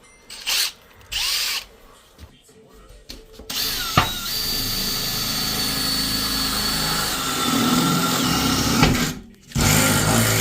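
Handheld electric power tool running steadily for about five seconds with a constant motor whine, stopping briefly and starting again near the end.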